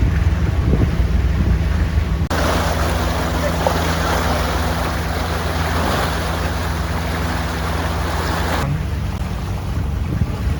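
A boat's engine running at a steady pitch, with a rush of water and wind noise that comes in about two seconds in and drops away sharply near the end.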